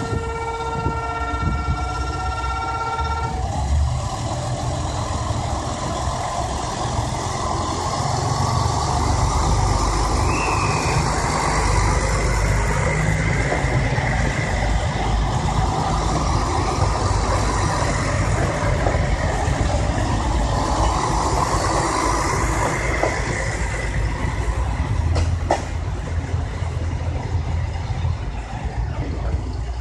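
JR Shikoku 2000-series diesel tilting train's engines running under power as it pulls out of the station, a steady low rumble that grows louder about eight seconds in and holds. A steady pitched tone sounds for the first three seconds or so.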